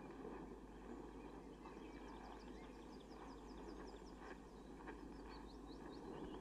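Near silence: faint outdoor ambience with a low hum and a run of quick, faint, high chirps of small birds through the middle.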